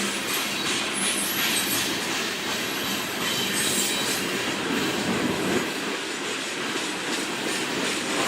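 Freight cars rolling past on the track. The wheels click over rail joints with a steady rumble, and faint high-pitched wheel squeal comes and goes.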